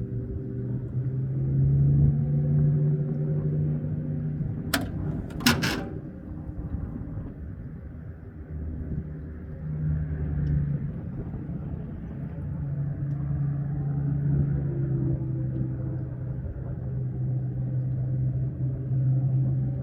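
Boat motor running at low speed, a steady low hum that swells and fades, with a few sharp knocks about five seconds in.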